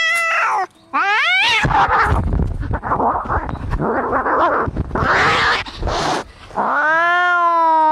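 Cats fighting: a yowl that breaks off just after the start, a quick rising wail, then several seconds of harsh hissing and spitting, and a long, steady yowl beginning near the end.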